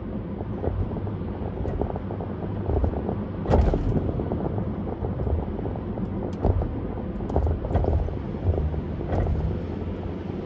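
Car driving on a highway: steady road and engine rumble with some wind noise, broken by a few short thumps, the loudest about three and a half seconds in.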